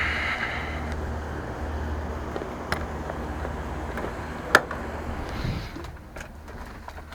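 Steady low background rumble with a few sharp clicks; the loudest click comes about four and a half seconds in.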